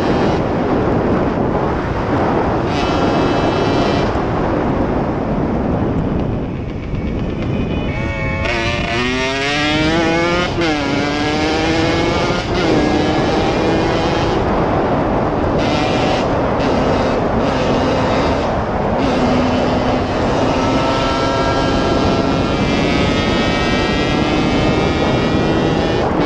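Motorcycle engine revving up in several rising sweeps, dropping in pitch at each gear change, then pulling at steadier revs. A constant rush of wind and road noise sits under it.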